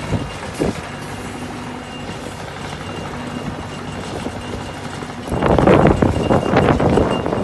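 Diesel engine running steadily, with a louder, irregular clattering noise over it from about five seconds in.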